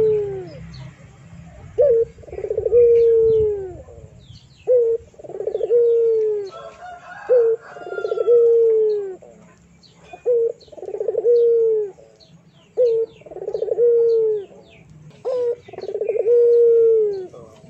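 A dove cooing over and over, about six times, one call every two and a half seconds. Each call is a short low note followed by a longer one that wavers and then falls. Faint chirps of small birds come in between.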